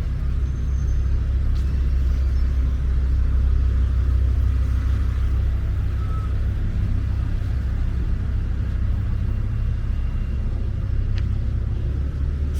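Steady low rumble of city street traffic, with a faint tick or two.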